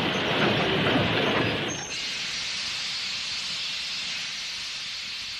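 Train rumbling along on the rails, then about two seconds in a sudden switch to a steady hiss like escaping steam.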